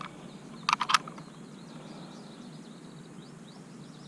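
Outdoor river ambience: a steady low hiss with faint, rapid high-pitched chirping running through it. A short cluster of sharp clicks and taps comes about a second in.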